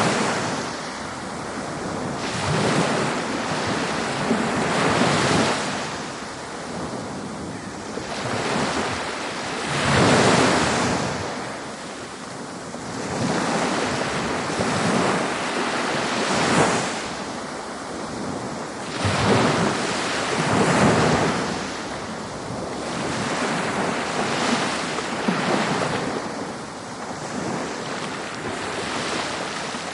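Ocean waves breaking and washing up on a beach, a continuous surf hiss that swells and eases every few seconds.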